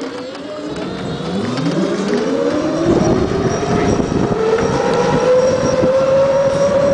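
Mini bike's small engine accelerating: its pitch rises over the first three seconds, then holds high and nearly steady as it runs on, growing louder.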